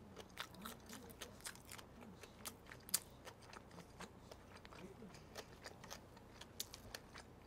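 A mouthful of shrimp being chewed close to the microphone: faint, irregular crunching and wet clicks, several a second, with one sharper crunch about three seconds in.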